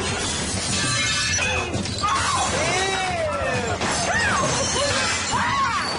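Voices shrieking in rising and falling glides over background music, with a crashing, shattering clatter.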